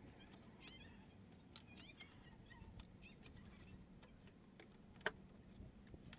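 Faint short, high animal calls, several in a row, with a few light sharp clicks among them.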